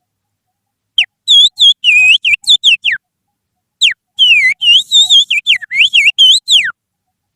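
Finger whistle imitating the song of an oriental magpie-robin (kacer), made as a lure call to set caged kacer singing: two phrases of quick, looping, swooping whistled notes, the second longer, with a short pause between.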